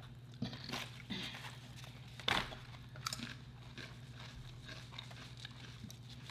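Close-up chewing and biting while eating a sub sandwich: soft mouth sounds with a few short crunchy clicks, the loudest about two seconds in, over a steady low hum.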